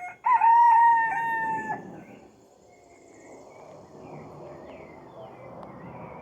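Rooster crowing once, a loud call lasting about a second and a half; faint small-bird chirps follow.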